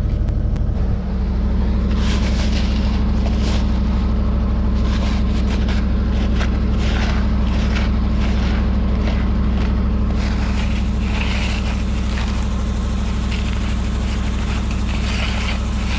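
An engine running steadily at idle, with irregular knocks and scrapes over it.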